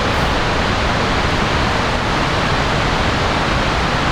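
Fast-flowing river water rushing steadily at close range.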